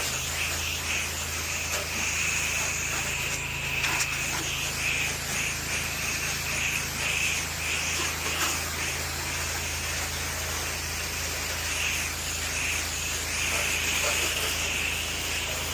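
Pressure washer spraying water from its wand, a steady hiss of spray over the low, even hum of the machine, starting suddenly as the trigger is pulled.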